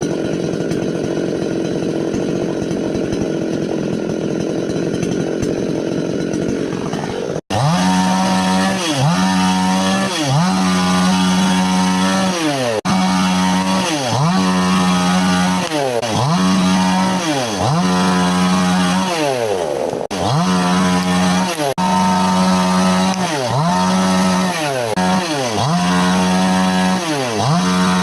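Chainsaw running. After a sudden break about seven seconds in, its engine pitch rises and falls over and over, about once every second and a bit.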